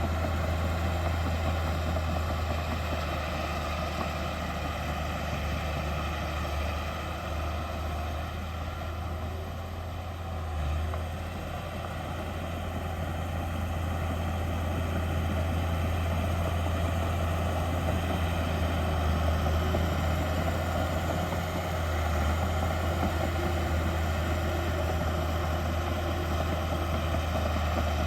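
Heavy diesel engine of earthmoving machinery running steadily with a deep low hum, dipping slightly in loudness about ten seconds in before rising again.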